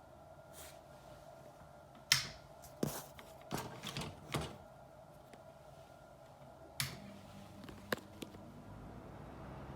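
Several sharp plastic clicks and knocks, about seven spread over a few seconds, from handling a Mitsubishi kitchen ventilation fan and its filter cover, over a faint steady hum. Near the end a low fan whir starts to rise.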